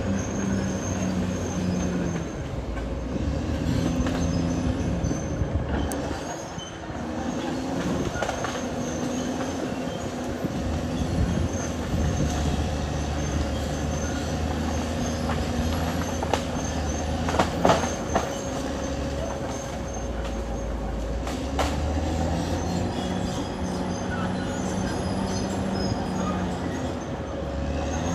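Caterpillar D6R XL bulldozer working: its diesel engine runs with the engine note rising and falling under changing load, amid the grind and squeal of its steel tracks. There are a few sharp metallic knocks about two-thirds of the way through.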